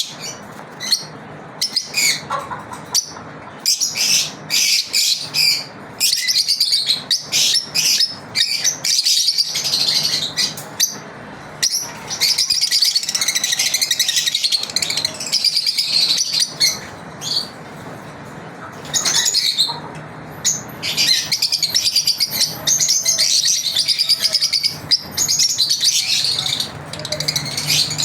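Lovebirds chirping continuously, rapid high twittering calls coming in dense bouts with brief lulls, over a faint low hum.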